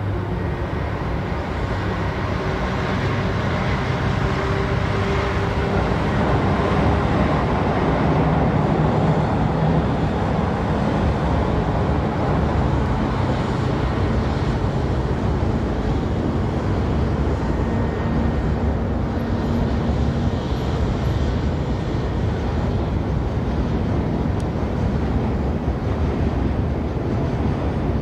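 Passenger train running along the track: a steady rumble and rail noise that grows a little over the first several seconds and then holds.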